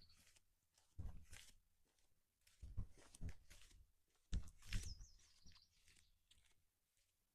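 Footsteps on a trail, a handful of irregular soft steps and scuffs. A small bird gives one short high chirp about five seconds in.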